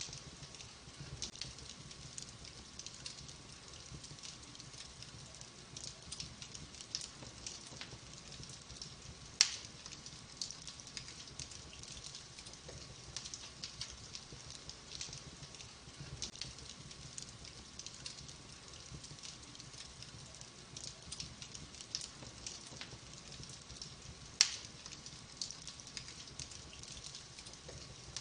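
Wood fire burning in a fireplace: steady soft crackling of logs, with two loud sharp pops, about a third of the way in and near the end.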